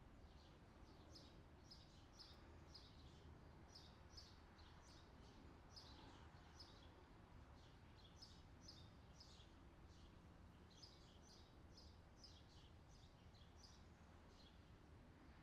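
Faint outdoor summer ambience track: small birds chirping over and over, a few short high chirps a second, above a low steady background hum.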